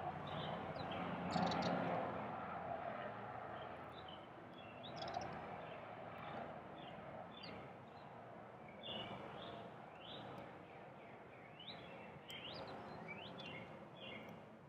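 Small birds at a feeder chirping with many short, quick notes, more of them in the second half, over a steady background hum of noise that swells briefly about a second and a half in.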